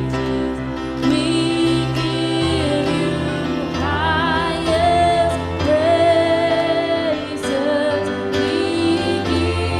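Live worship music: a woman singing long, held notes with vibrato over a sustained instrumental accompaniment.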